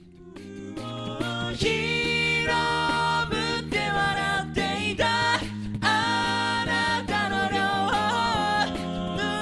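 A cappella vocal group singing a pop song in close multi-part harmony, with percussive hits keeping a beat. It comes back in from a brief near-silent break at the start and builds up over the first second or so.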